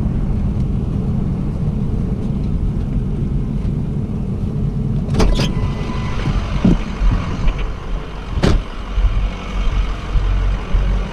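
A vehicle driving, heard from inside the cab: a steady low engine and road drone, with two sharp knocks about halfway through and again near the end.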